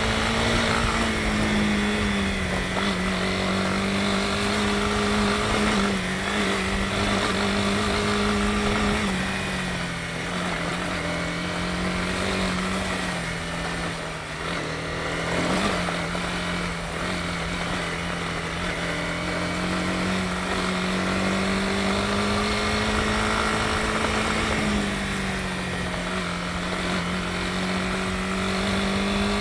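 Honda CB250R's single-cylinder engine running steadily under way. Its pitch drops slightly about a third of the way in and rises again near the end.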